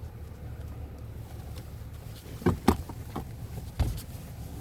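1998 Toyota Camry engine idling steadily as a low hum heard inside the cabin, with three short knocks, two in quick succession about two and a half seconds in and one more near the end.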